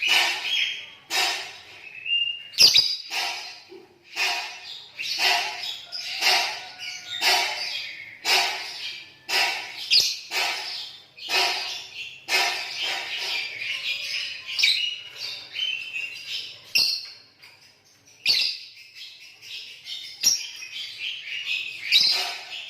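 Lovebirds chattering: strings of shrill chirps in bursts roughly once a second, running into denser, more continuous chatter near the end.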